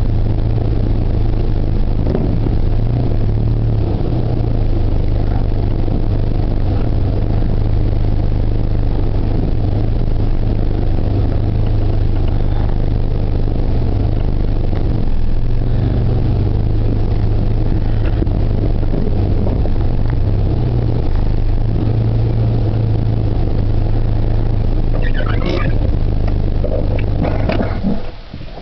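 Car engine and road noise heard from inside the cabin while driving slowly, a steady low drone. Near the end there are a few short high squeaks, then the drone drops away suddenly as the car stops.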